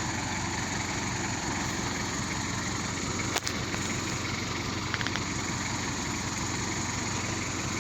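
Truck engine running steadily at low revs, with one sharp click about three and a half seconds in.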